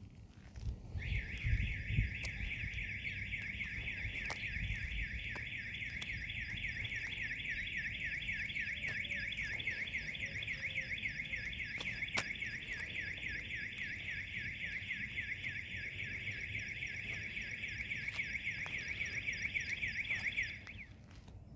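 Vehicle alarm siren sounding a fast, continuous warble for about twenty seconds, then cutting off suddenly.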